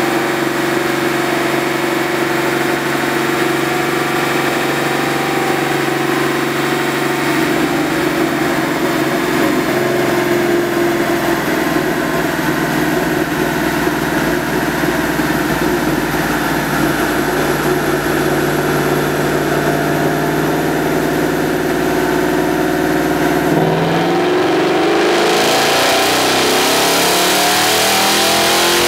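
2011 Mustang GT's 5.0 L Coyote V8 running on a chassis dyno, holding a steady engine speed for about 23 seconds. About 24 seconds in it goes to full throttle for a dyno pull, and the pitch rises steadily as it revs up.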